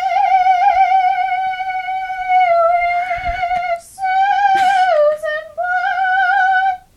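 A girl singing long held notes with a wide vibrato, without words, in three phrases; the voice stops just before the end.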